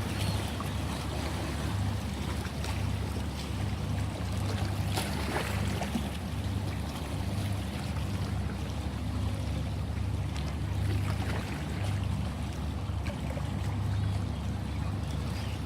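Sea waves washing and water splashing, over a continuous low rumble.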